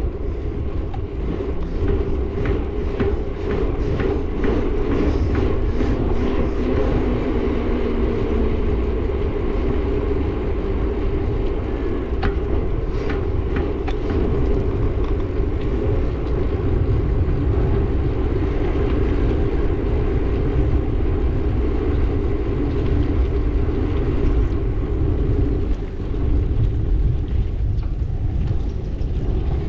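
Steady rumble of riding through traffic on a bike: wind on the microphone and a running motor's steady drone, with a few faint clicks.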